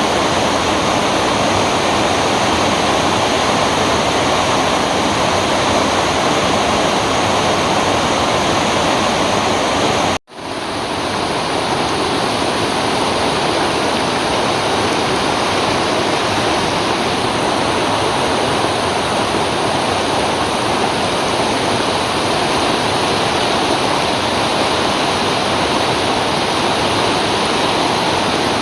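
Heavy rain falling in a steady rush. About ten seconds in it cuts out abruptly for an instant, then fades back in.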